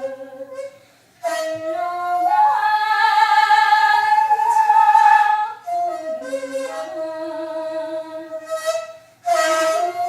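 Daegeum, the Korean bamboo transverse flute, playing a slow melody in breath-length phrases: a short break about a second in, then a note that bends up into a long held high tone, then lower notes and another brief break near the end.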